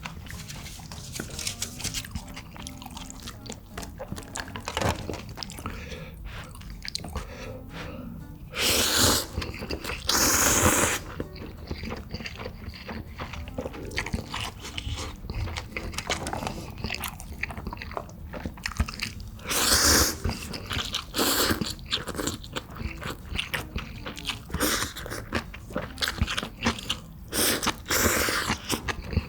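Close-miked eating: a person chewing and biting food with crunchy bites, in short repeated clicks. A few louder noisy bursts of about a second each break in along the way.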